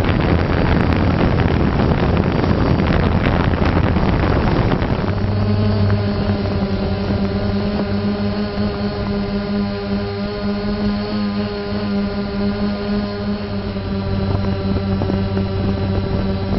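A multicopter drone's electric motors and propellers humming steadily at several fixed pitches. For the first five seconds heavy wind rumble on the microphone covers it.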